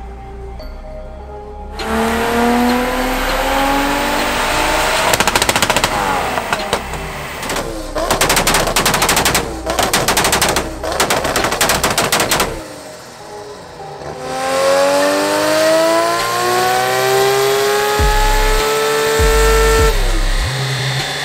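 A tuned Nissan Skyline R32 engine at full throttle on a chassis dynamometer, its revs climbing steadily through a pull. In the middle comes a rapid run of sharp bangs lasting several seconds, broken by short gaps. After a brief drop, a second climbing pull cuts off near the end.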